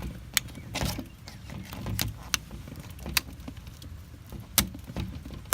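Scattered sharp metallic clicks and knocks, about seven in five seconds, as a trim piece is pried and pulled out of an old aluminum window frame.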